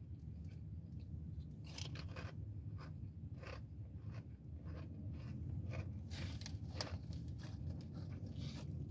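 A person chewing crunchy chips, a series of irregular crunches over a steady low hum.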